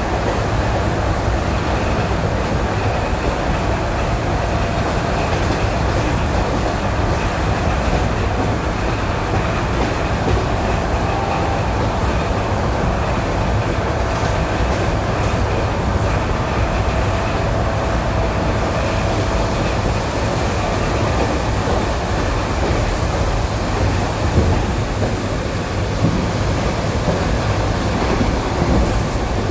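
ED9E electric train running at speed on jointed rail, heard from inside the car: a steady rumble with the clatter of the wheels over the rail joints. There are a couple of louder knocks near the end.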